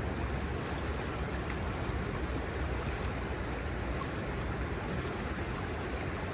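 Kamo River water flowing over its shallows: a steady rushing murmur, with a low rumble underneath.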